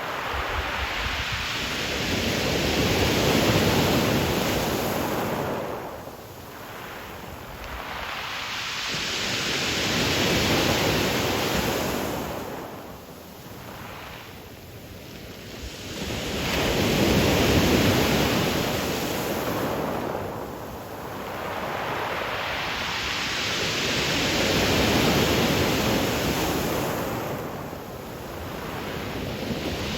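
Ocean waves breaking and washing up the pebble shore of Qixingtan Beach, in slow surges about every seven seconds that rise and fall away between breakers.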